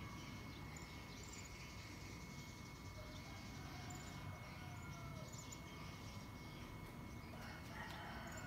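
Faint, short high bird chirps scattered over a steady low background rumble, with a few faint gliding whistled notes about halfway through.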